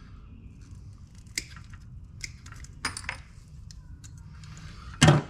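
A few sharp metallic clicks and clinks of small hand tools and wiring parts being handled, spaced a second or two apart.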